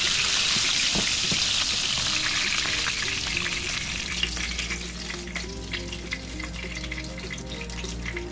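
Chicken thighs frying in butter and olive oil, the fat sizzling strongly at first and easing to lighter, scattered crackling about halfway through.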